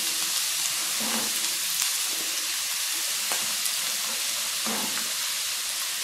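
Chopped onion sizzling steadily in hot oil in a frying pan, just added, with a few faint crackles.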